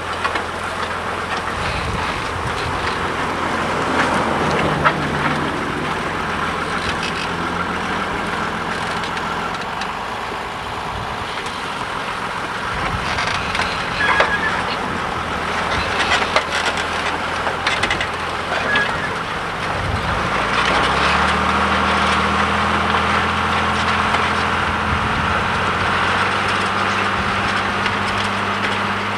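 John Deere 3350 tractor's diesel engine running steadily while ploughing, with scattered clicks and rattles in the middle. About two-thirds of the way through, the engine note shifts and then holds steadier and stronger.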